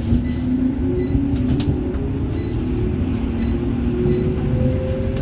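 CAF Urbos 3 tram running, heard from inside the car: a steady low rumble with the traction motors' whine climbing slowly in pitch as the tram gathers speed.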